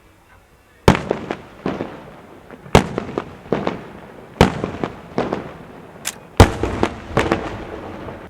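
Festa fireworks going off in a loud salvo: four big bangs spaced about one and a half to two seconds apart, the first about a second in, each followed by a run of smaller cracks and a fading echo.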